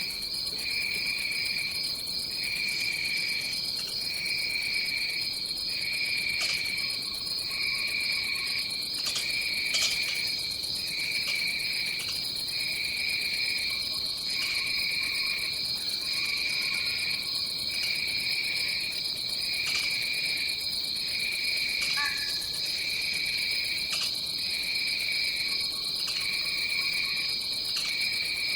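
Dense tropical insect chorus. One insect keeps up a continuous high-pitched buzzing trill, and another chirrs in regular pulses about once a second. Faint lower calls come and go underneath.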